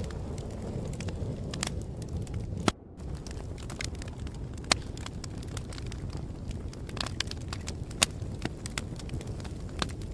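Fire crackling: a steady low rumble of flames with sharp pops scattered through, the loudest about three, five and eight seconds in. The sound cuts out for a moment about three seconds in.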